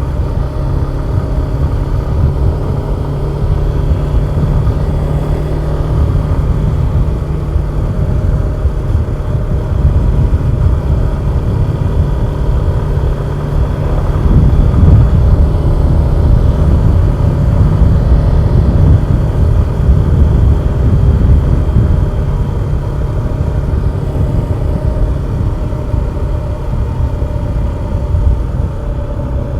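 Suzuki Gixxer 150SF motorcycle's single-cylinder engine running steadily while riding, with a deep rumble that grows a little louder around the middle.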